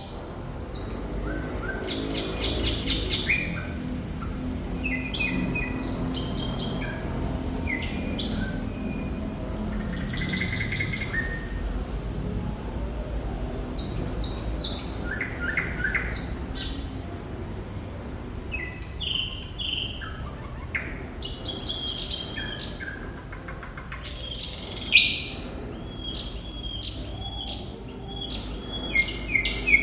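Thrush nightingale singing a varied song of short repeated phrases: rapid clicking rattles, whistled notes and quick note series, with a loud harsh burst about 25 seconds in.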